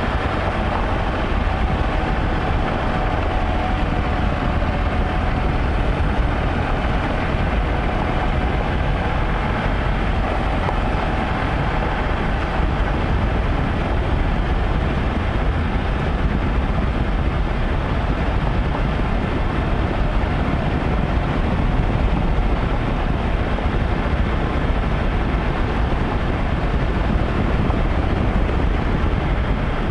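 Steady, loud vehicle noise in motion: a deep rumble with a rushing noise over it, unchanging throughout.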